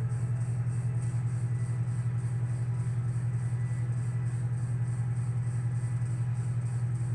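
A small electric motor running steadily with a low hum and a fast, even pulse.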